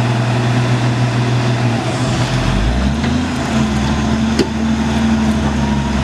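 Diesel truck engine running under load, its note changing about two to three seconds in and then holding steady. A sharp click about four seconds in.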